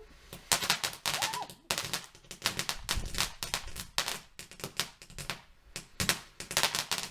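Fireworks going off in rapid strings of loud, sharp bangs and crackles, like a firework cake firing shot after shot.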